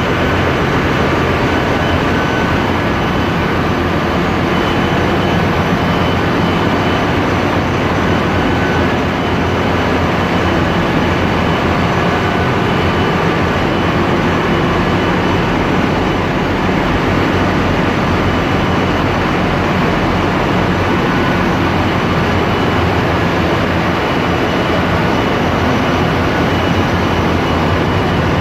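Loud, steady machinery noise of a ship's engine room with its diesel engines running, a dense constant din with faint steady whines running through it.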